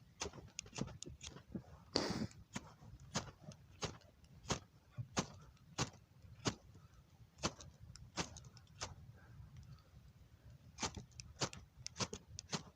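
Ferro rod (fire steel) struck over and over with a scraper: a run of short, sharp scrapes, about one or two a second. The sparks fail to light the dry-grass tinder.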